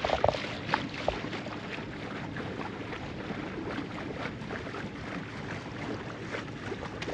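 Steady wind and water noise aboard a small sailboat moving slowly under way, with faint scattered ticks and knocks.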